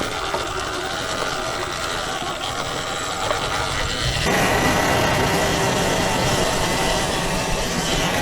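Sur-Ron Ultra Bee electric dirt bike riding along a forest trail: a steady motor and drivetrain whine with tyre and brush noise, getting suddenly louder about four seconds in.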